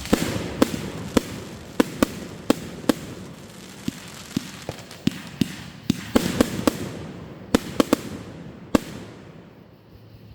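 Fireworks going off in quick, irregular succession: many sharp bangs over a crackling haze, thinning out and stopping a little before the end.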